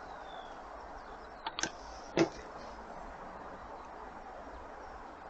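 AP900 air rifle firing one shot about two seconds in, a short sharp report, just after a couple of faint clicks.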